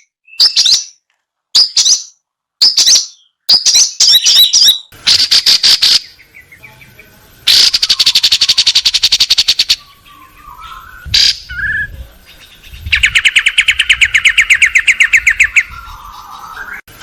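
Long-tailed shrike (cendet) singing: a run of short, sharp chirps with gaps between them, then fast rattling trills from about five seconds in.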